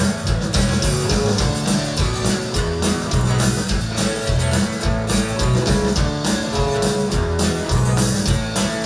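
Live country band playing an instrumental break with no vocals: guitars and bass over a steady shuffling beat.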